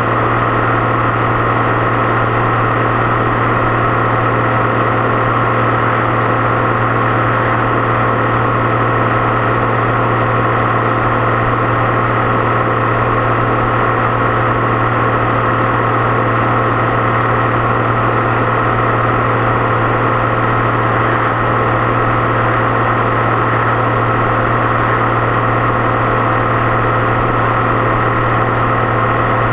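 Deutz-Fahr 6.61 tractor's turbocharged diesel engine running steadily under way, a constant low drone with a steady high turbo whistle over it.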